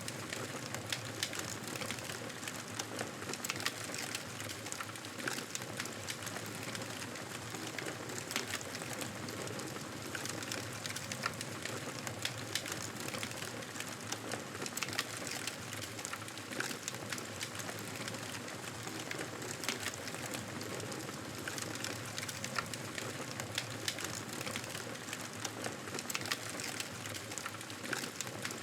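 Campfire burning: a steady hiss with frequent sharp crackles and pops.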